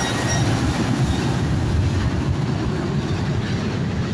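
Boeing 737-800 jet engines (CFM56-7B turbofans) at take-off thrust, a loud steady rumble.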